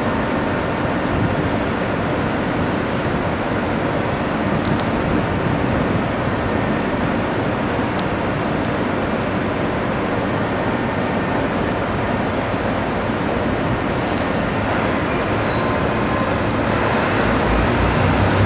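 A JR West KiHa 127 series diesel railcar pulling out of the station: a steady running rumble of engine and wheels on rail that grows louder near the end.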